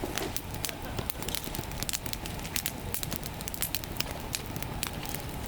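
Wood campfire blazing high, with irregular sharp crackles and pops over a steady low rush.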